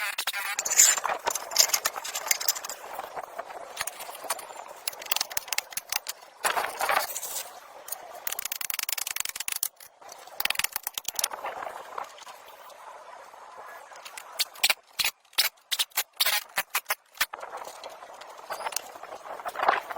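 Irregular scraping and rattling with many sharp clicks and knocks, the sound of hand work on metal parts, broken by several abrupt cuts.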